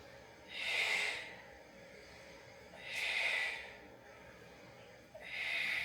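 A woman breathing audibly close to the microphone: three long, breathy breaths about two and a half seconds apart. They are paced breaths matched to the leg circles of a Pilates exercise.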